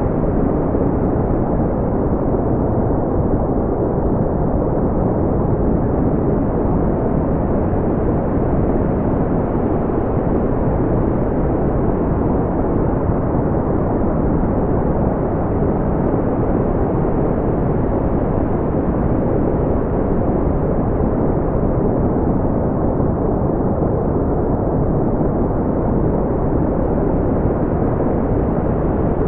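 Steady, deep brown noise: an even low rumble of random noise with little treble, unchanging throughout.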